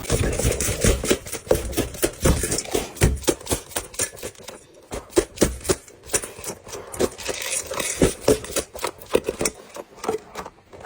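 A rapid, irregular run of sharp clicks and knocks, like small hard objects tapping and clattering, thinning out about halfway through.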